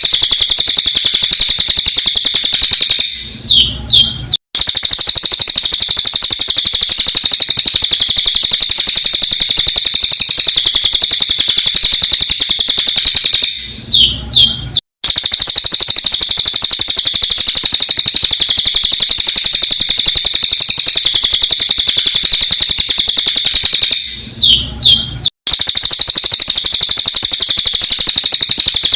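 Cililin bird song, sped up: a loud, dense, unbroken stream of very rapid, sharp high-pitched notes. Three times it breaks off briefly for a few separate whistled notes and a low thump, then resumes, repeating in a loop about every ten seconds.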